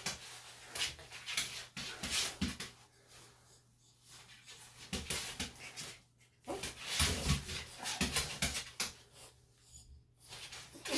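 Senior Bichon–Shih Tzu cross making dog sounds in irregular bursts as it fidgets and struggles against being held by the head for ear plucking.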